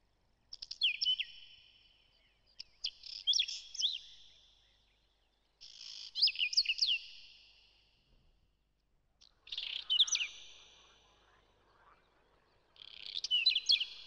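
A bird calling in five short phrases of quick, high chirping notes that slide in pitch, spaced two to four seconds apart.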